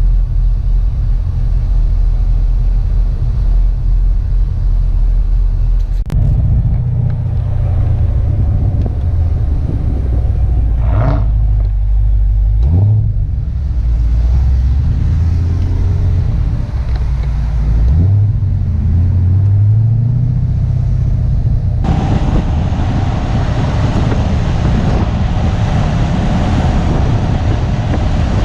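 Corvette engine and road noise while driving, the engine revving up about twelve seconds in and again about eighteen seconds in. The sound changes abruptly twice, about six seconds in and near twenty-two seconds.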